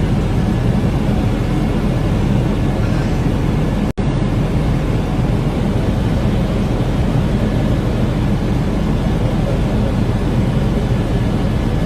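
Helicopter rotor and engine noise heard inside the cabin: a steady, loud, low drone. It cuts out for an instant about four seconds in.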